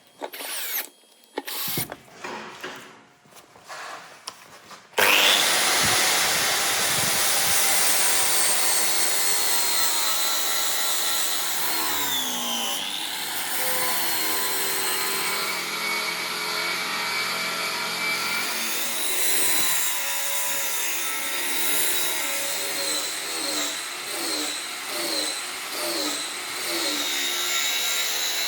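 A few light knocks and clatters, then about five seconds in a power grinder starts abruptly and runs on, grinding the steel of a Damascus knife blade, its pitch dipping and recovering as the blade is pressed on.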